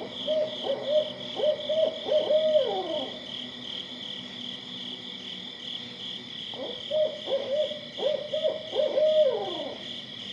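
An owl hooting in two phrases, each a run of hoots ending in notes that slide down in pitch, the second phrase starting about six and a half seconds in. A steady high-pitched background sound runs underneath.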